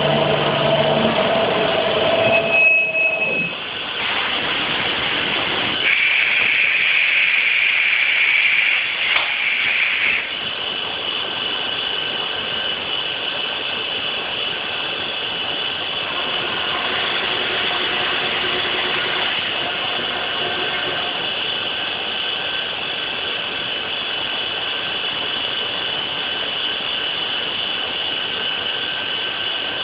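Wadkin 5-axis CNC trimming machine running, its cutter spindle giving a steady high whine as it trims plastic. About six seconds in, it grows louder and harsher for roughly four seconds, then settles back to the steady whine.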